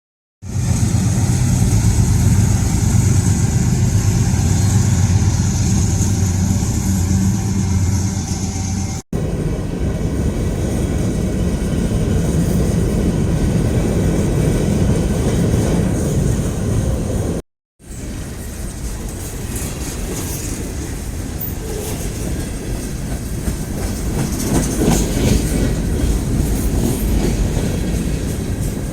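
Freight train cars rolling past at a grade crossing, a steady heavy rumble with wheels clattering rhythmically over the track. The sound is cut off twice for an instant.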